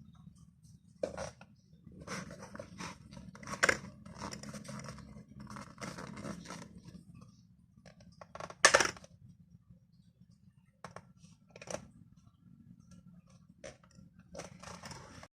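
Small objects being handled: scattered clicks, knocks and scraping, with one sharp knock about a third of the way in and the loudest just past halfway, over a steady low hum.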